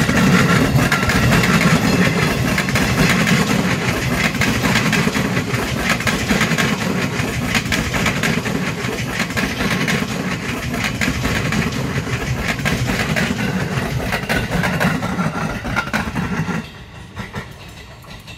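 A train passing close by at speed, its wheels clattering steadily over the rails; the noise drops away suddenly near the end as the train clears.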